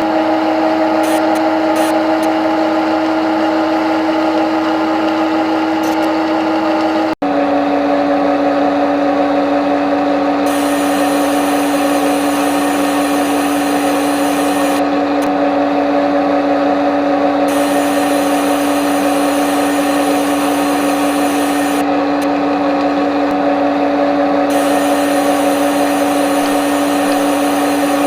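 CNC lathe running a machining cycle: a steady machine whine over a hiss. The sound breaks off for an instant about seven seconds in and comes back a little lower in pitch.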